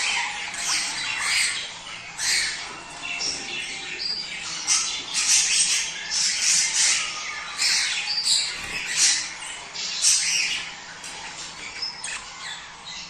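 Several budgerigars chattering and squawking in quick, overlapping chirps and harsh calls, the busy warble of budgies in breeding condition.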